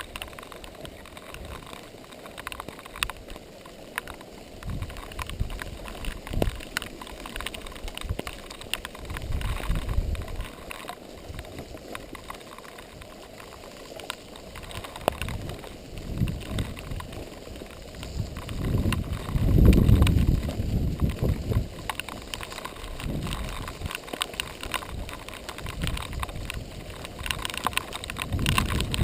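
Giant XTC 3 mountain bike ridden on a dirt trail: tyres running over the ground and the bike rattling with many small clicks. Wind buffets the microphone in gusts, loudest about two-thirds of the way through.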